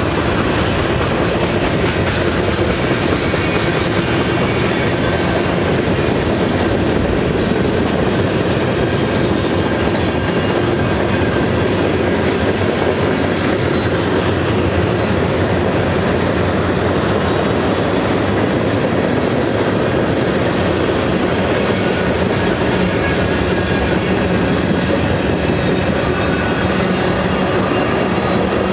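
Freight cars of a mixed manifest train (tank cars, boxcars and covered hoppers) rolling past: a loud, steady rumble and clatter of steel wheels on the rails.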